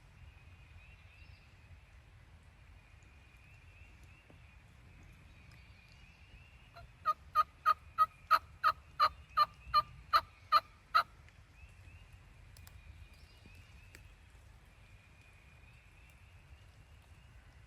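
A series of about a dozen turkey yelps, roughly three a second, running for about four seconds in the middle of a quiet outdoor background.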